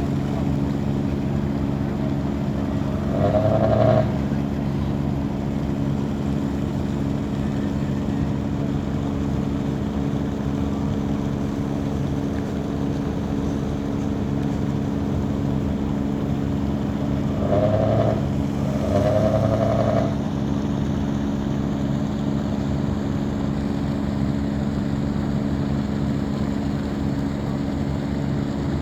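Boat engine running at a steady speed, a constant low hum with several even tones. Two short higher-pitched sounds rise over it, about three seconds in and about two-thirds of the way through.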